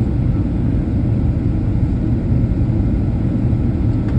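Boeing 737 airliner in flight: a steady low rumble of engines and airflow.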